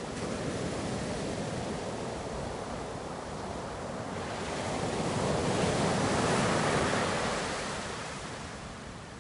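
Ocean surf washing in as a steady rush. One wave swells to its loudest about six seconds in, then recedes.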